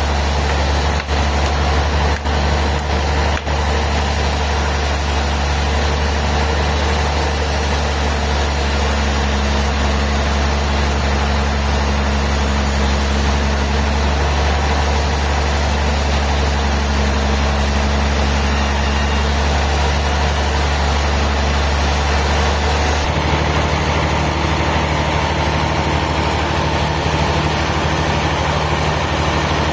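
Sawmill machinery running steadily with a loud, heavy engine drone under a wash of mechanical noise; the low hum shifts pitch about three quarters of the way through.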